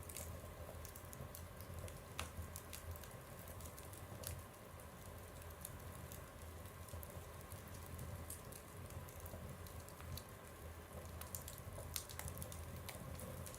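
Wood fire burning in a stove: irregular crackles and pops over a low, steady hum, with a few sharper snaps about two seconds in and again near the end.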